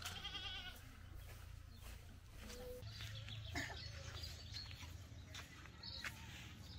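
A goat bleating once, a short quavering call in the first second, followed by a faint low rumble with a few faint short calls.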